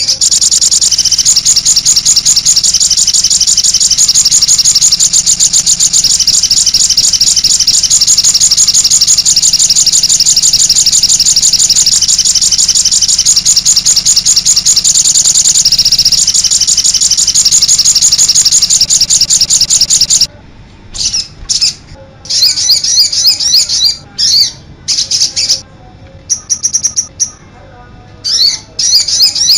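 Songbird singing a fast, unbroken, high-pitched chattering song for about twenty seconds, then shorter bursts of song with brief pauses between them, as on a masteran training recording for songbirds.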